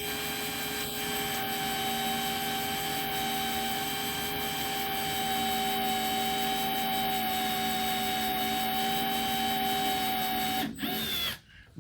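Electric drill running at a steady speed with a drill bit boring into a broken steel fender bolt, a steady motor whine with no binding. It cuts off about ten and a half seconds in, with a brief blip of the trigger just after.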